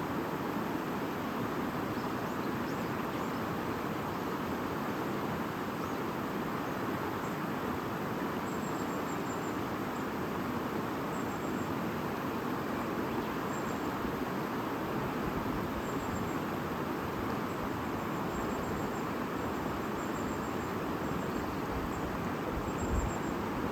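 A shallow stream babbling steadily, with faint high chirps in short runs above it. Wind gusts on the microphone come in right at the end.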